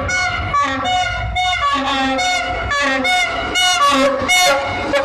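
Railway locomotive's multi-note air horn played as a rhythmic run of short blasts, about two to three a second, with the chord changing from blast to blast. A low engine rumble runs underneath.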